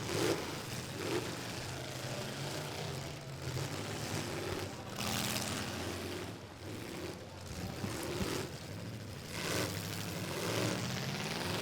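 Demolition derby pickup trucks' engines running and revving at a distance, with a couple of louder surges partway through.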